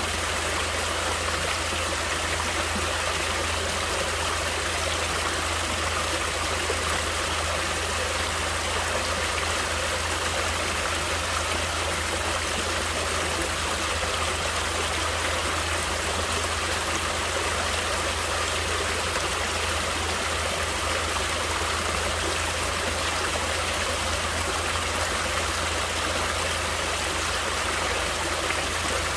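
Natural stream water flowing steadily: a continuous, even rush of running water with no breaks or changes.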